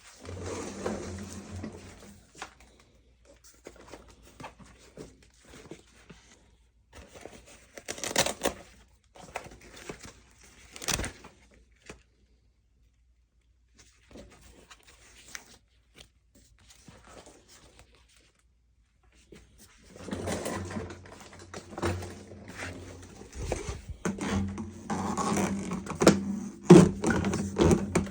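Scattered knocks, clicks and rustling of objects being handled, with a few louder knocks and two quiet gaps. Busier handling near the end.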